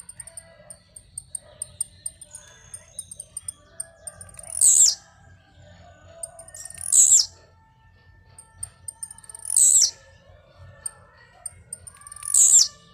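Blue-black grassquit (tiziu) giving its short buzzy song four times, roughly every two and a half to three seconds, each a quick falling sweep: the song of its leaping display. Many faint high chips and softer chirps fill the gaps between.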